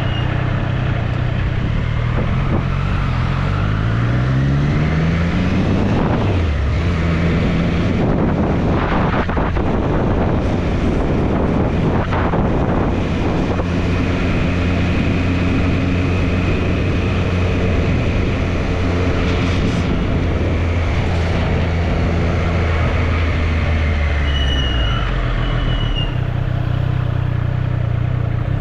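Triumph Street Triple's inline three-cylinder engine under way, rising in pitch as it accelerates a few seconds in, holding a steady pitch through the middle, then dropping off near the end as it slows, with wind rush throughout.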